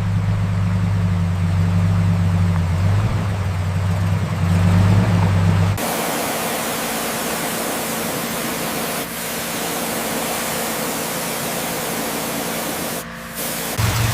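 A steady low mechanical hum, which cuts off suddenly about six seconds in to a steady hiss of air spraying; the hiss runs on, with a short break about thirteen seconds in, and the low hum comes back at the very end.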